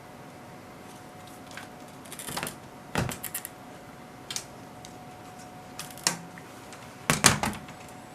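Scattered clicks and knocks of hands handling the opened HP 3245A and its parts on the bench, the loudest clatter near the end, over a faint steady tone.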